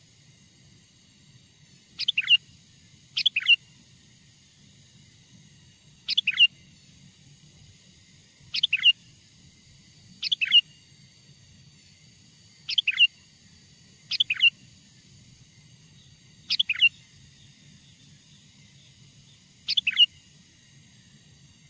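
Wild sooty-headed bulbul (kutilang) calling: about nine short, chirpy calls, each a quick cluster of falling notes, repeated at irregular gaps of one to four seconds. A faint steady low hum lies underneath.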